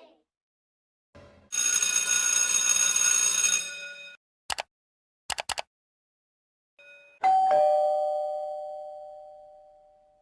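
Doorbell chime sound effect: a two-note "ding-dong", the higher note struck first and the lower one just after, both fading out over about three seconds. It is preceded by about two seconds of steady ringing and a few sharp clicks.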